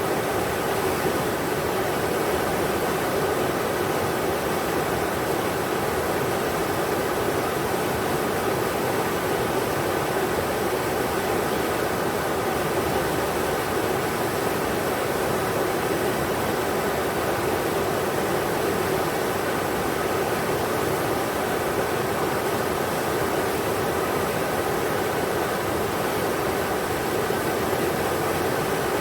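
River water rushing over rocks: a steady, unbroken rush of flowing water.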